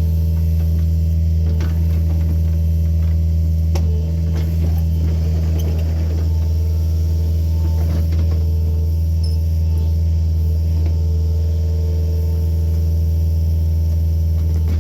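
John Deere 50G mini excavator's diesel engine running at a steady speed with a constant low hum, with scattered knocks and rattles from the machine working, busiest from about four to eight seconds in.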